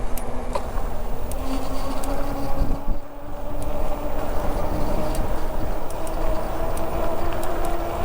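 Low rumble of wind and tyres on a moving bicycle, with a faint steady hum that slowly rises in pitch and a few scattered clicks. The level dips briefly about three seconds in.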